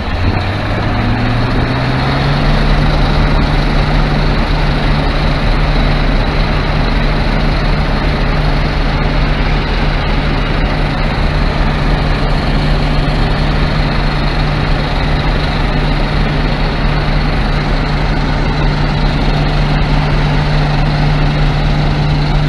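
DON-1500 combine harvester revving up over the first couple of seconds, then running steadily at working speed, with its threshing machinery running.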